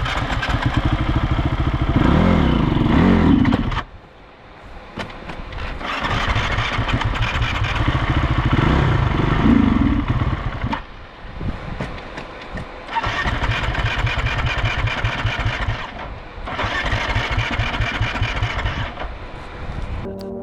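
Dirt bike engine being cranked on its starter in four separate tries of a few seconds each, with short pauses between them.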